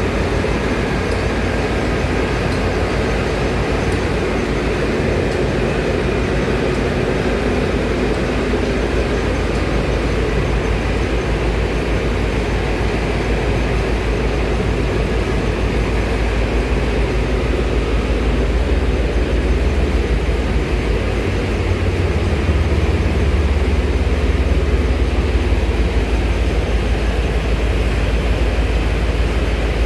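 Steady low mechanical rumble, growing a little louder and deeper about two-thirds of the way in.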